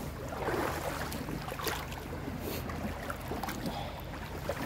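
Footsteps wading through a shallow river, with irregular splashes over a steady low rumble.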